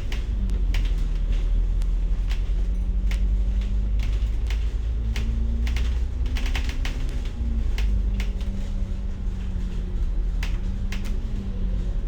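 Bus running, heard from inside: a deep engine drone and low rumble whose pitch rises and falls a few times, with frequent sharp clicks and rattles.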